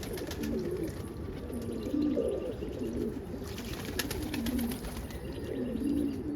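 Roller pigeons cooing over and over, several birds overlapping, with scattered light clicks and taps among them.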